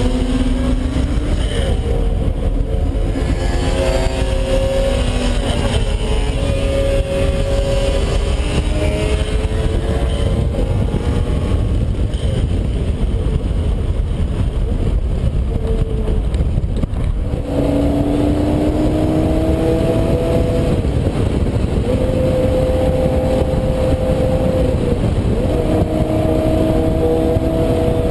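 Heffner twin-turbo Lamborghini Gallardo V10 accelerating hard through the gears. The engine note climbs in pitch several times, each climb ending in a drop as it shifts up, over a heavy low rumble. It eases off through the middle before pulling hard again near the end.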